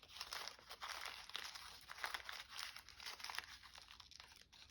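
Paper being handled and shifted about, rustling and crinkling in faint, irregular crackles.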